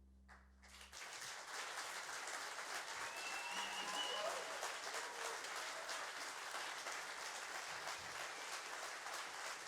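The band's last sustained low note ends about a second in, and an audience breaks into steady applause, with a few voices calling out in the middle.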